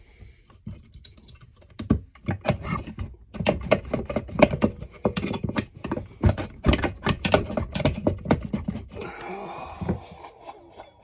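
Quick irregular metal clicks and knocks as a small engine's cover is rocked and pried on a shaft where a rusted seal holds it stuck, then a heavy breath near the end.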